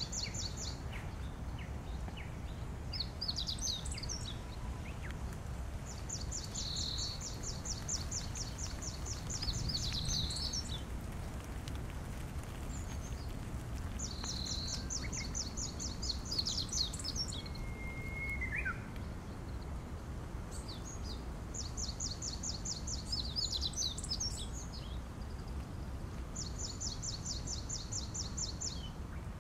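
A small songbird sings a rapid, even, high trill of about two seconds, repeated roughly every seven seconds. Short chirps from other birds fall in between, with one brief lower whistle about halfway through. A steady low rumble of background noise runs underneath.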